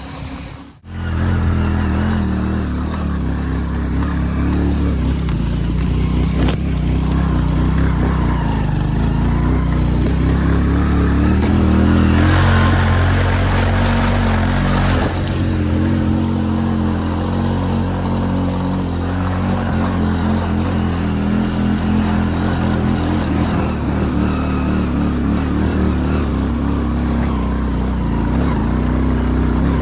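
Motorcycle engine running steadily while riding, with a louder, noisier stretch about twelve to fifteen seconds in. The sound drops out briefly just under a second in.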